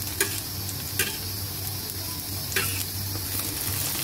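Noodlefish and egg omelette patties frying in hot oil in a pan, a steady sizzle, with three sharp clicks and a steady low hum underneath.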